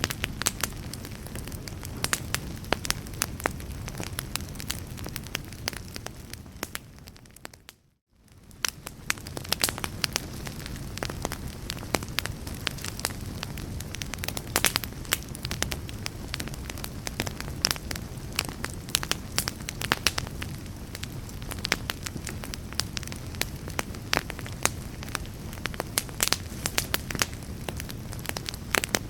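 Fire crackling: a steady low rush of flames with frequent sharp pops and snaps. After several seconds the sound fades out to a brief silence and fades straight back in, then runs on as before.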